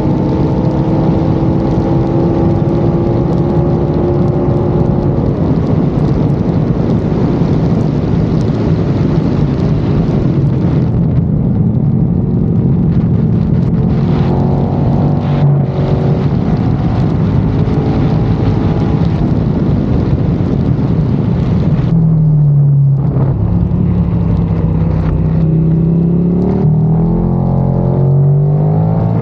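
KTM Super Duke V-twin engine under hard acceleration on a racetrack, heard from a camera on the bike with heavy wind rush. The engine note climbs and drops through repeated gear changes. Near the end it backs off and then rises through the gears again in a run of climbing pitches.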